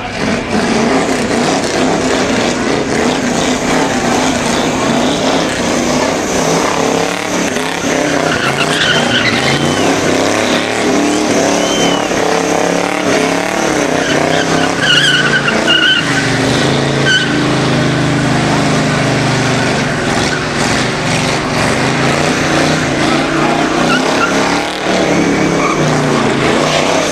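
American V8 car doing a burnout: the engine is held at high revs as the rear tyres spin and squeal against the pavement. It runs on continuously, the engine pitch wavering as the revs rise and fall, with sharper tyre squeals in the middle.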